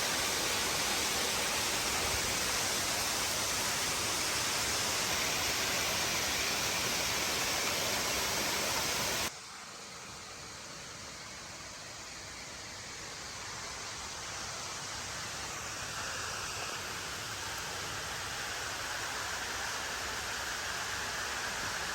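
Steady rush of falling and flowing mountain water. About nine seconds in it cuts suddenly to a quieter rush that slowly builds again.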